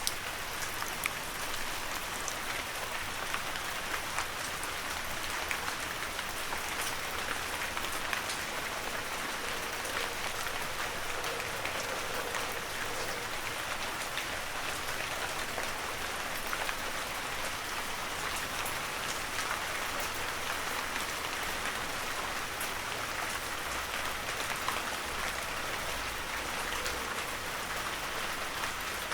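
Heavy rain falling steadily, a dense hiss with many sharp individual drop ticks scattered through it.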